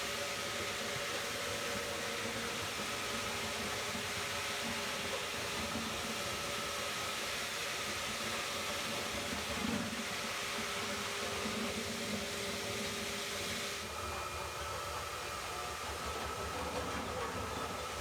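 Concrete floor grinder running steadily on a basement's concrete slab, a continuous hissing machine noise with a faint steady whine, grinding the surface down.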